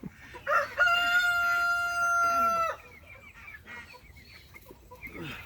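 A rooster crowing once, a long held call of about two seconds that cuts off sharply, followed by softer clucking from the flock.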